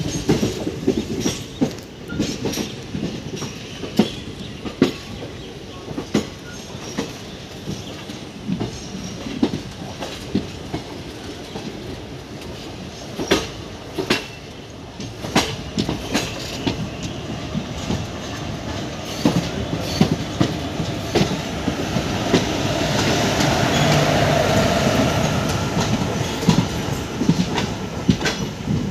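Indian Railways express train arriving: wheels clicking over rail joints and points above a steady rumble. The noise builds into a louder, denser running sound as a WAP-4 electric locomotive and its coaches pass close by, peaking a few seconds before the end.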